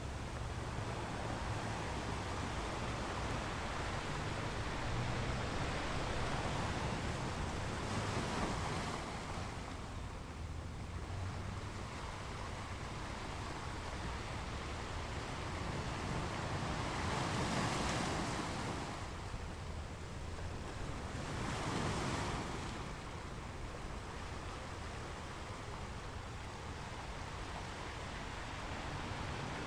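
Waves breaking and washing up on a beach, swelling and falling back every several seconds, with a low rumble of surf and some wind underneath.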